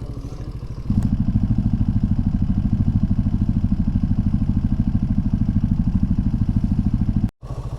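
Mini motorcycle engine idling with an even, rapid pulse. It gets louder about a second in and cuts out briefly near the end.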